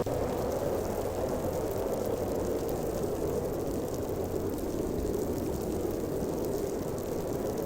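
Snowstorm wind blowing hard, a steady deep rushing sound that eases a little midway and builds again near the end.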